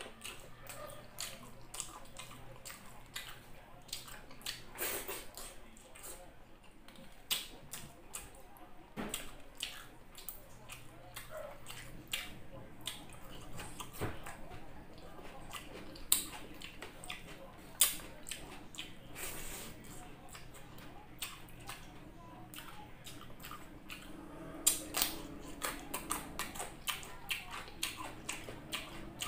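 Close-up eating sounds: wet chewing and lip smacking as chicken masala and rice are eaten by hand, with a run of sharp sticky clicks. The clicks come thicker near the end.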